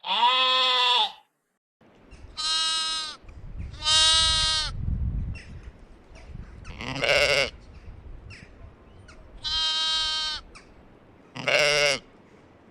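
Sheep bleating: six separate bleats about two seconds apart, the last one wavering.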